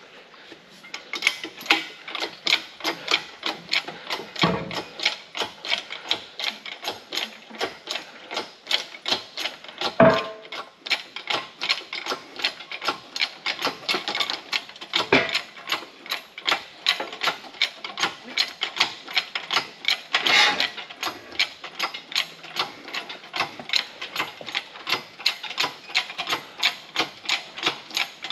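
Hand ratchet wrench clicking in a steady rhythm, about three to four clicks a second, as a nut is run on or off a bolt, with a few louder knocks of metal along the way.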